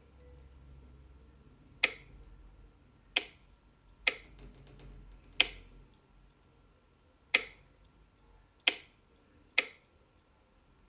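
An on-off switch being flicked: about eight sharp clicks, unevenly spaced.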